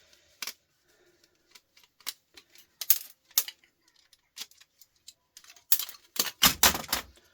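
Hand tools and small metal parts clicking and clinking as a CD changer is taken apart by hand, with a run of louder knocks and rattles near the end.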